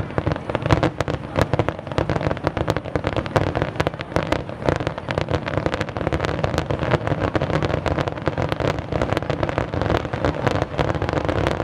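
Fireworks barrage: many aerial shells launching and bursting in quick succession, a dense, unbroken run of bangs and crackle that keeps up a steady loudness.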